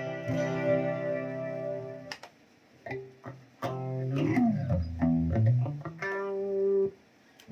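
Electric guitar played through a Zoom G1Xon multi-effects pedal: a chord rings for about two seconds, then single picked notes follow, with a downward slide about halfway through. Near the end one note is held for about a second and then cut off.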